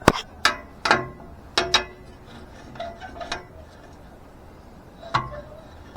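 A 22 mm wrench clinking on a just-loosened oxygen sensor: sharp metal clicks with a short ring, several in the first two seconds, then a quieter stretch and one more near the end.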